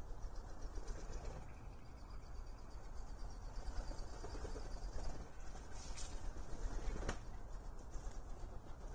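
Mallard drakes flapping their wings and scuffling on a platform feeder during a fight, with two sharp knocks about six and seven seconds in.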